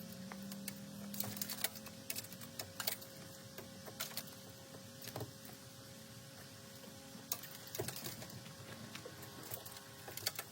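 Irregular light clicks and taps, like tools or small parts being handled in a workshop, over a faint steady hum.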